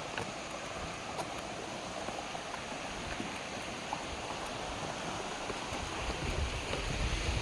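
A mountain stream running over rocks, a steady rush of water, with low wind rumble on the microphone building near the end.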